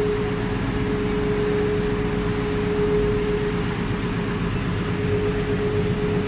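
Boat engine running steadily, a constant drone with a clear, unchanging hum.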